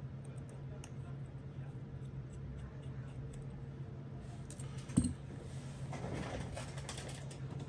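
Faint small ticks and one sharp click about five seconds in from a precision screwdriver working an iPhone's bottom pentalobe screws, over a steady low hum.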